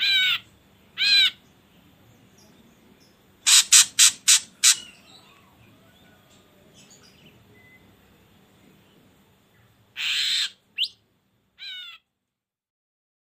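Ashy drongo calls: two clear notes that bend downward in the first second or so, then a quick run of five harsh, sharp notes about three and a half seconds in. Near ten seconds comes a rasping call, then a short rising note and one more downward-bending note, before the recording goes dead silent.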